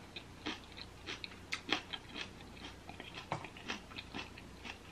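Close-miked chewing: a person eating with soft, irregular wet smacks and clicks of the mouth, a few each second.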